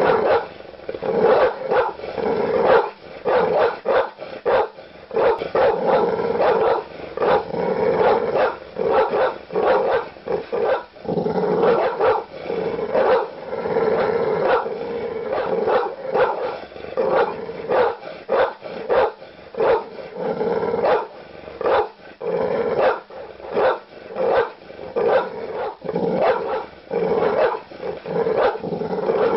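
Large dogs barking aggressively in deep, loud woofs. The barks come in a dense, unbroken run of about two or three a second.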